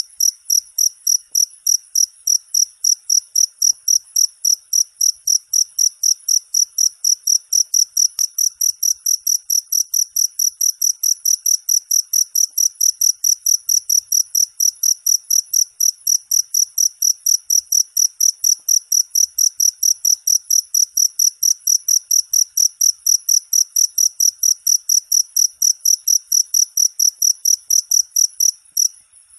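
A cricket (jangkrik) chirping in a steady run of high-pitched, evenly spaced chirps, about four a second, with a brief break near the end.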